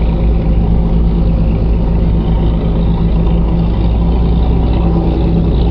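Passenger ferry's engine running steadily, a loud, even low hum with a wash of noise over it.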